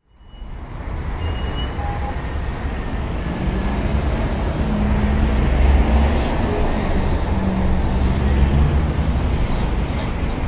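Steady low rumble of a road vehicle's engine running, with a wavering engine note in the middle stretch.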